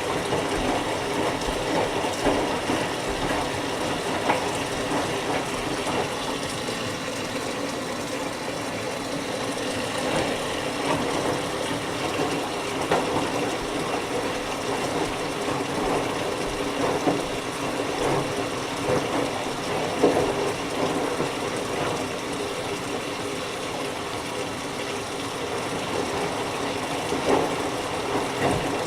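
Whirlpool Duet Sport front-load washer filling, with water running steadily into the drum through its inlet valve.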